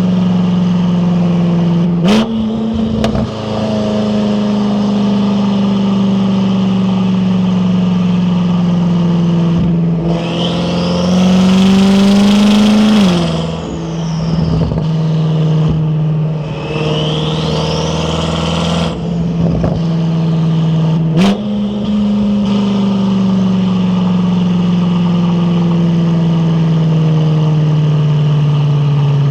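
BMW F10 M5 Competition's twin-turbo V8 through an Akrapovic exhaust, running at a steady engine speed while driving. The pitch steps up sharply twice, about 2 s and 21 s in, then slowly sags. About 10 seconds in it accelerates hard with rising pitch and a rising turbo whistle, cut off by a gear change; a second rising whistle follows a few seconds later.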